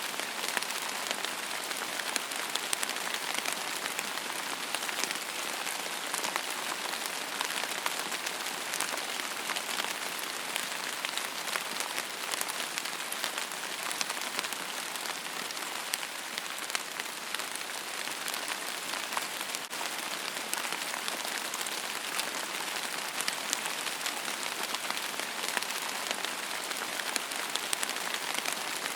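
Steady rain falling on a hard surface: an even hiss dotted with many small individual drop ticks.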